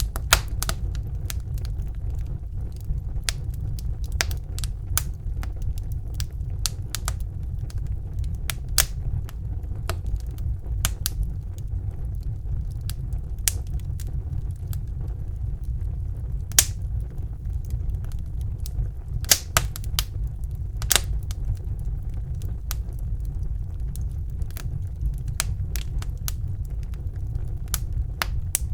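Fire burning in a fireplace: a steady low rumble with irregular sharp crackles and pops throughout, a few of them louder snaps.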